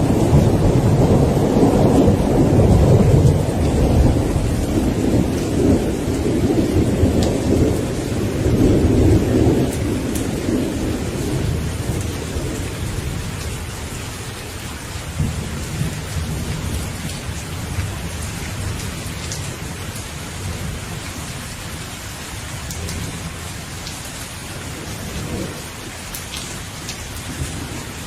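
Thunderstorm: steady rain with a long rolling rumble of thunder that dies away after about ten seconds, followed by a fainter rumble a few seconds later. Raindrops tick over the rain's hiss.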